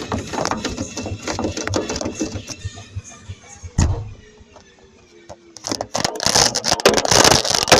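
A camera tumbling inside a spinning washing-machine drum: rapid knocking and rattling, with a heavy thump about four seconds in. A quieter moment follows, with a motor tone drifting lower, then a loud rush of knocks and noise.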